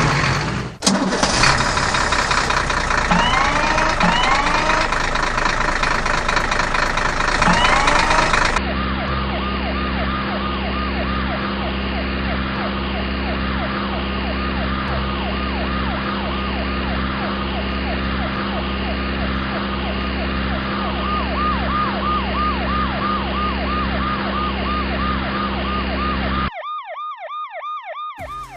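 Cartoon vehicle sound effects: a fast, repeating siren over a steady engine hum. The sound changes character about eight seconds in, and the hum drops out near the end, leaving the siren alone.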